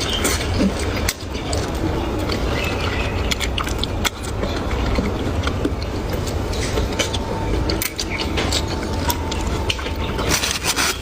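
People eating a meal: chewing, with many quick clicks and taps of chopsticks against bowls and plates over a steady low hum.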